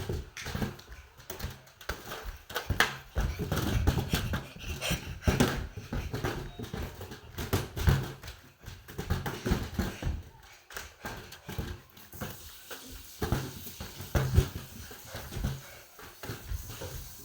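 A balloon being batted and bounced around, giving irregular soft thumps and taps, with panting breath among them.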